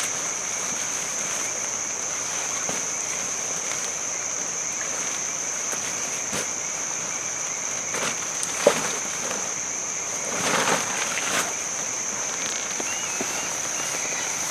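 Insects trilling steadily on one high, unbroken note over a soft hiss. A single sharp knock comes a little past halfway, with a brief rustle shortly after.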